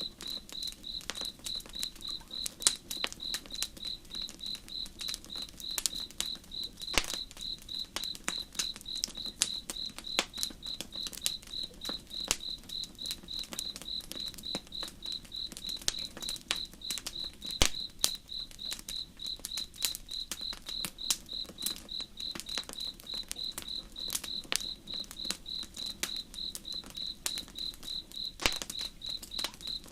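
Cricket chirping steadily at about three chirps a second, over the irregular crackle and sharp pops of a campfire, with a soft, even rush of slow river water underneath.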